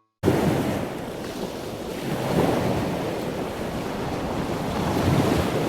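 Sea waves washing onto a beach, with wind buffeting the microphone. The sound starts suddenly just after the beginning and then runs unevenly, with heavy low rumbling gusts.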